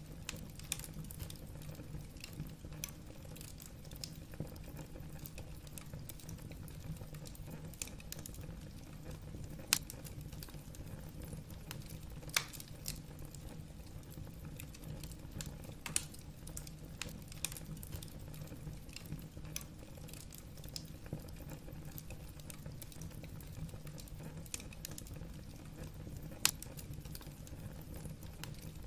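Wood logs burning in a fireplace, crackling: a steady low rumble of the fire with irregular sharp pops and snaps, a few of them louder than the rest.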